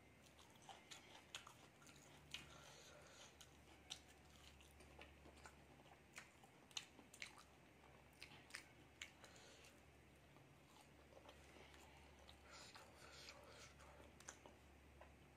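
Faint close-up chewing: soft wet mouth smacks and clicks at irregular intervals as a person eats hakka noodles and a breaded egg devil by hand.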